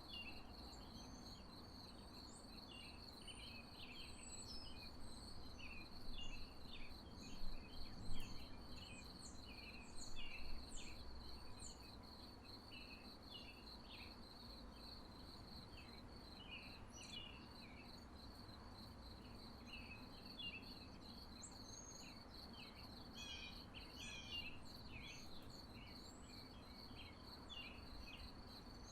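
Crickets trilling steadily on one high tone, with birds chirping over low background noise. A few brief louder sounds come between about six and eleven seconds in.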